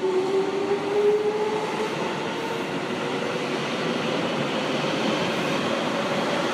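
Electric commuter train running on the next track, its motor whine rising in pitch over the first two seconds as it gathers speed, over steady running noise of wheels and rails.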